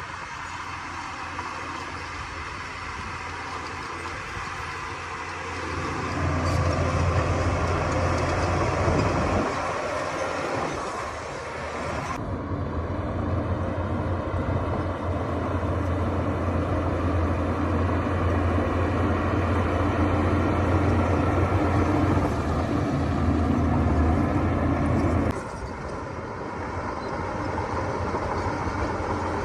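Diesel engines of heavy earthmoving machinery running, a bulldozer and dump trucks at work. The engine noise grows louder about six seconds in and changes abruptly twice further on.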